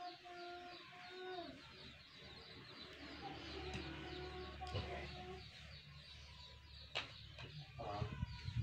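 Birds calling faintly, with a held cooing call near the start and quick, high chirps running on through.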